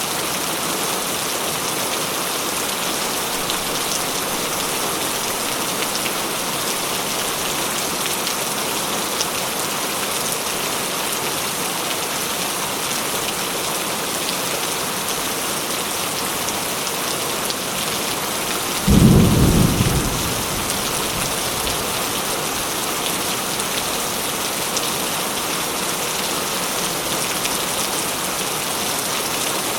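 Steady heavy rain falling on surfaces. About two-thirds of the way through comes one sudden, deep thunderclap that rumbles away within a couple of seconds.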